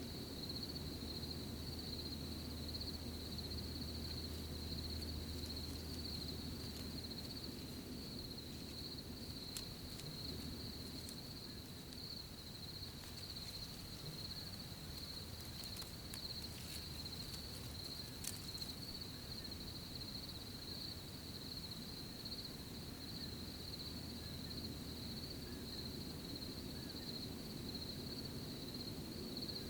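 Crickets trilling without a break in a high, slightly pulsing tone, over a low steady hum. A few faint clicks come in the middle.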